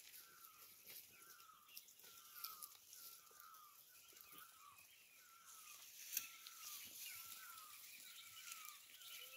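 A bird calling steadily: short, falling notes repeated about twice a second, over faint rustling and crackling in dry grass as goats graze.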